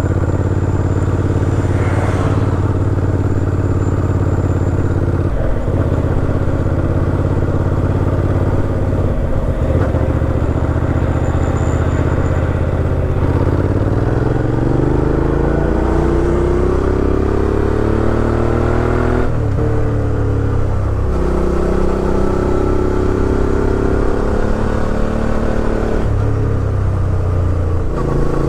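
Suzuki V-Strom 650 XT's V-twin engine running under way. It holds a steady note for about half the time, then rises in pitch as the bike accelerates. The pitch drops sharply with a gear change a few seconds later, and changes again twice toward the end.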